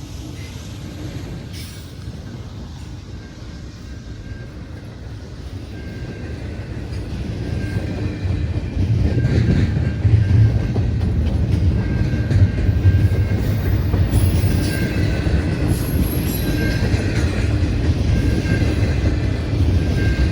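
CN freight train's diesel locomotives and cars passing on the rails. A low rumble grows louder about eight seconds in and stays loud.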